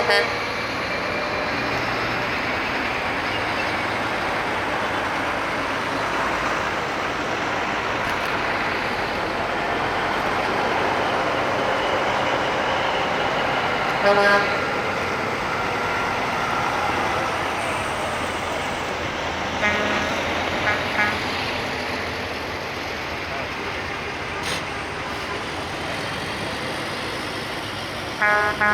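Trucks driving past with their engines and tyres running steadily, and a truck horn blast about halfway through followed a few seconds later by several short toots.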